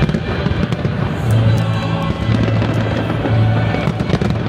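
Fireworks bursting and crackling in the sky over loud music with sustained low notes.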